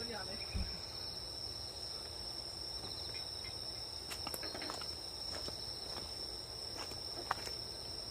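Grass insects singing in a steady high-pitched chorus, with a pulsing chirp beneath the continuous trill. A few faint clicks fall in the second half, and one sharper click comes near the end.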